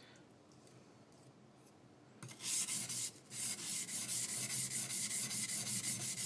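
A high-speed-steel skiving knife rubbed back and forth on a wet coarse water stone to grind the blade flat. The scraping starts just over two seconds in with a short run, a brief pause, then quick even strokes.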